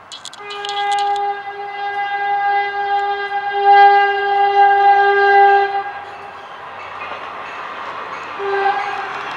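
Horn of a Capital MetroRail Stadler GTW commuter train sounding one long blast of about five seconds, then a short blast near the end. Under it, the rumble of the train on the rails grows louder, and a few sharp clicks are heard in the first second.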